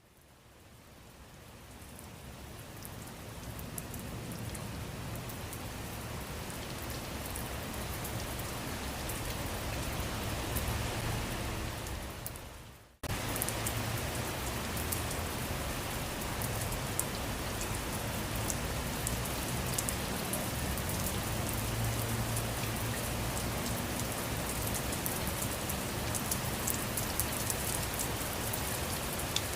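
Steady rain falling on a surface, fading in over the first few seconds. A little before the middle it dips and cuts off for an instant, then comes straight back at full strength, with many sharp ticks of single drops.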